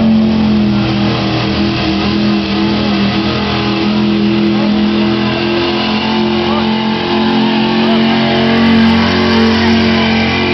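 A stock pickup truck's engine held at high revs under heavy load while it drags a pulling sled. It makes a loud, steady drone that barely changes in pitch.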